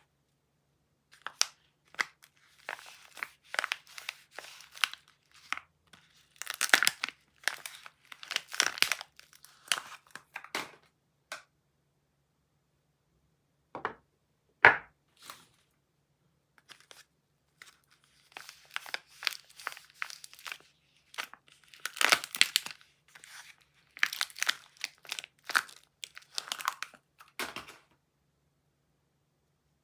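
Soap packaging being unwrapped by hand: the wrapper crinkles and tears in two long spells, with a pause between them broken by two short sharp clicks.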